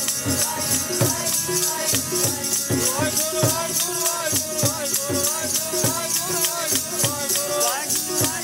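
Sikh kirtan music: a singing voice gliding between notes over steady drum strokes and a continuous jingling rattle.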